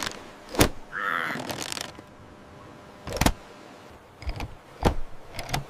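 Cartoon sound effects: a series of sharp clicks and knocks, like a small mechanical gadget being worked, with a brief harsh bird squawk about a second in.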